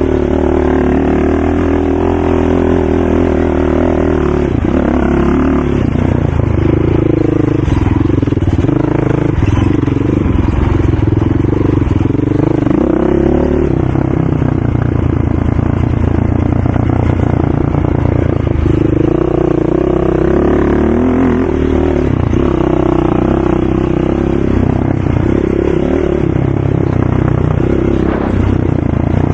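ATV engine running hard, its note rising and falling as the throttle is opened and eased off.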